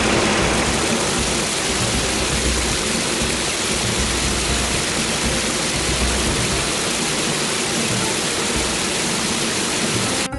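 Water rushing and splashing steadily, a loud even noise that cuts off suddenly near the end.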